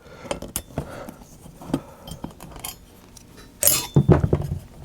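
Small metal clicks and clinks of a hand screwdriver backing out a small screw, with a louder clatter a little before the end as a tool or part is handled.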